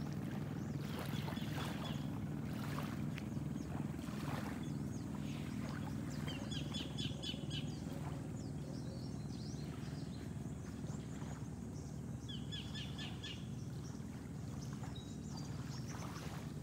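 Birds calling: a short, rapid, high-pitched trill repeated three times, about a second in, around the middle and near the end, over a steady low rumble of outdoor background noise.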